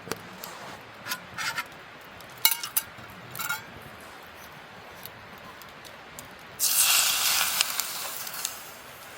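Metal utensils clink against camp cookware a few times. About seven seconds in comes a loud hissing sizzle that lasts about two seconds.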